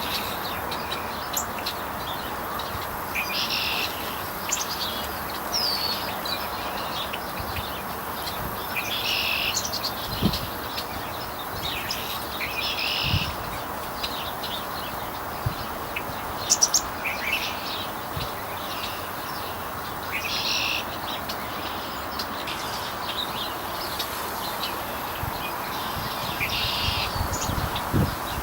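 Wild birds calling and chirping: one bird repeats a short, harsh call every few seconds, with scattered thin chirps from others over a steady background hiss.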